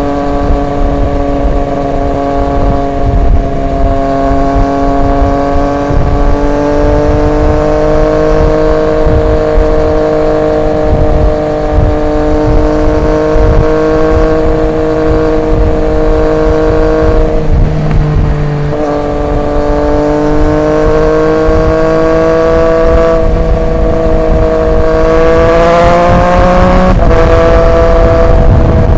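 Triumph Street Triple 765 RX's three-cylinder engine through an SC Project S1 exhaust, running under steady throttle with the revs slowly climbing. The note dips briefly a little past halfway, rises again and breaks off sharply near the end, picking up slightly lower, over a low rumble of wind and road.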